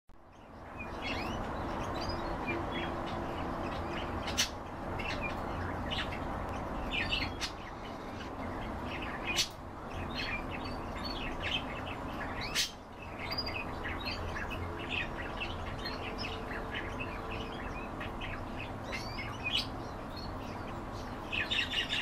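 Birds chirping and twittering in many short calls throughout, over a steady low background noise, with three sharp clicks spread through.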